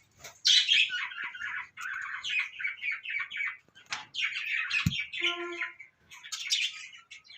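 A flock of budgerigars chattering and squawking in quick, continuous bursts. There is a single knock a little after halfway, then a short steady note.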